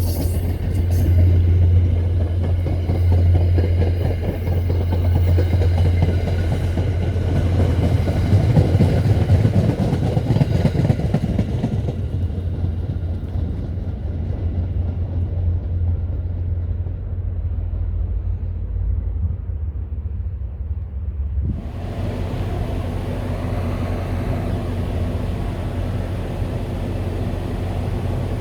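MBTA commuter train running on the rails, its higher sounds fading away as it moves off over a steady low rumble. About three-quarters of the way in, the sound cuts suddenly to a different steady rumble.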